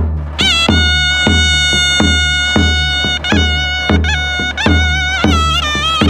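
Zurna and davul playing wedding folk music: the davul's deep strokes fall in a steady beat of about three every two seconds, and the zurna comes in about half a second in, holds one long piercing note, then plays short ornamented notes.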